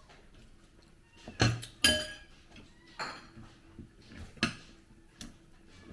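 Eating utensils clinking and knocking against plates and bowls, about five separate clinks; the loudest two come close together about one and a half and two seconds in, the second ringing briefly.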